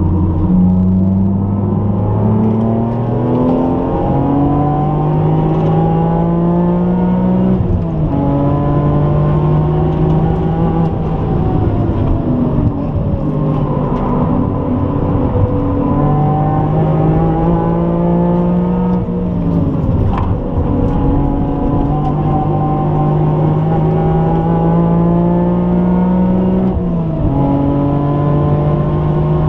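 BMW E46 M3's straight-six engine heard from inside the cabin, pulling hard at speed around a track. Its note climbs steadily, then the revs fall back several times: sharply about eight seconds in, deepest about twenty seconds in, and again near twenty-seven seconds.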